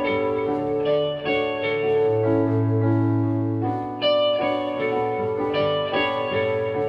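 A live band playing an instrumental passage of a rock song, led by guitar chords with a low bass line under them, the notes changing every second or so.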